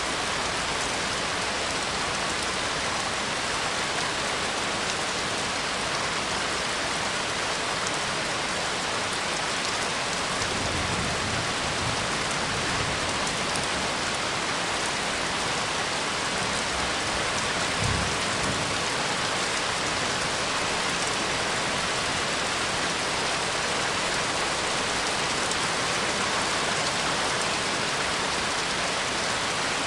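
Steady heavy rain falling on a surface, an even hiss of drops, with two brief low rumbles, one about a third of the way in and one just past halfway.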